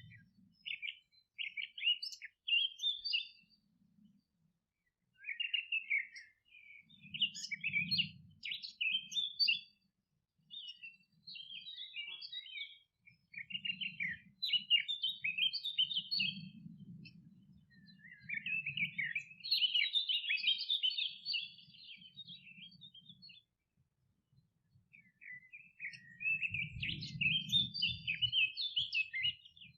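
Songbirds chirping and singing in quick, twittering phrases that come in bursts with short pauses between them, over a faint low rumble at times.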